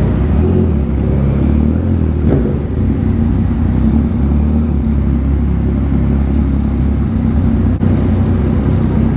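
Motorcycle engine running steadily at low revs as the bike rolls along at low speed, with one brief thump a couple of seconds in.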